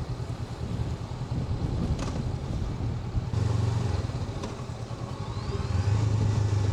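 Honda NX500's parallel-twin engine running as the motorcycle is ridden, with a steady low hum that grows louder about three seconds in and again near the end as the throttle opens.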